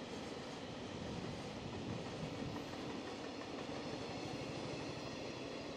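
Freight train of rail tank wagons rolling past, with a steady rumble and clatter of steel wheels on the rails as the last wagons go by.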